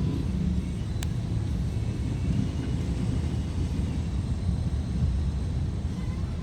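Steady low rumble of a vehicle driving along a road, with a brief click about a second in.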